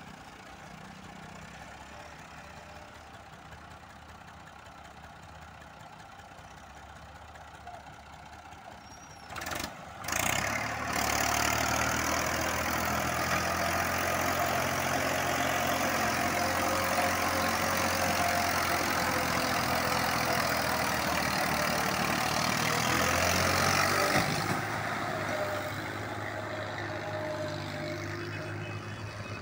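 A '240' tractor engine, loaded with about three tonnes, idling quietly. About ten seconds in, after a brief sudden noise, it revs up and runs loud and hard for about fourteen seconds, as when pulling a heavy load, then drops back to a lower, steady run.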